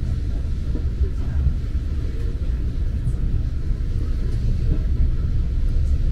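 Steady low rumble of an NJ Transit commuter train running along the track, heard from inside the passenger car.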